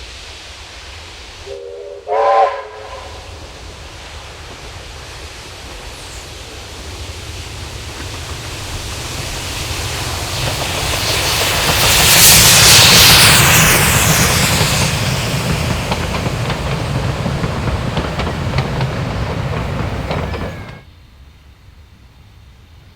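Steam locomotive (NZR Ww-class tank engine Ww 480) giving a short whistle blast about two seconds in, then its train approaching and passing with rising steam and rail noise. The noise is loudest around the middle and cuts off suddenly near the end.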